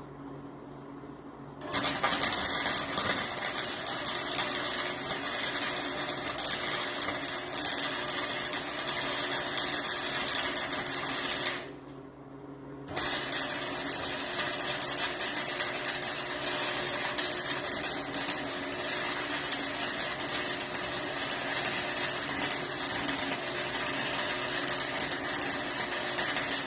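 MIG welding: a steady, harsh crackling hiss in two long runs, about ten seconds and then about fourteen seconds, broken by a second-long stop where the trigger is let off, over a faint steady electrical hum.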